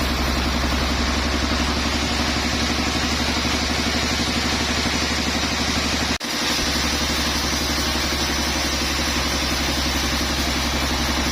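Engine running steadily at constant speed, with a pulsing hum. About six seconds in the sound cuts out abruptly for a moment and then comes back.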